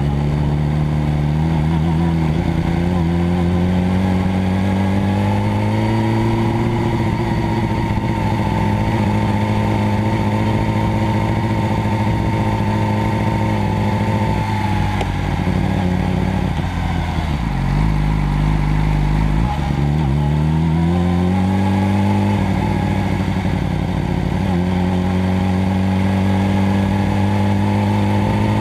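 Motorcycle engine running under way, its pitch climbing over the first few seconds, holding, dipping around the middle, then climbing again as it accelerates.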